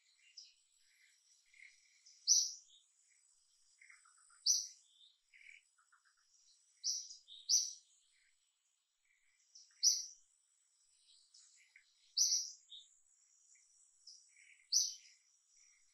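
Birds calling: a short, sharp high call repeated about every two to three seconds, with softer chirps between and a faint steady high whine underneath.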